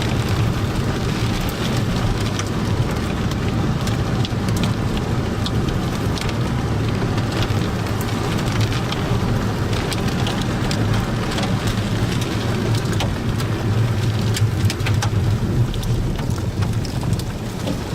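Heavy rain with many sharp drop hits, over a steady low rumble.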